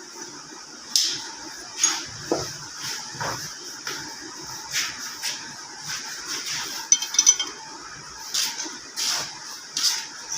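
Metal parts and tools clinking and tapping on a workbench: about a dozen separate light knocks, with a quick rattle of small clicks about seven seconds in, over a steady high hiss.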